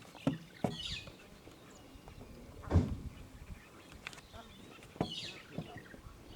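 Faint outdoor ambience: a few brief high bird chirps, with several soft knocks, the loudest nearly halfway through.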